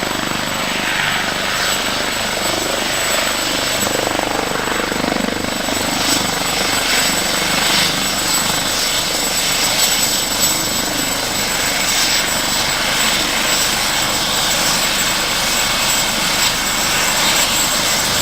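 An aircraft engine running steadily, a continuous loud roar without clear breaks.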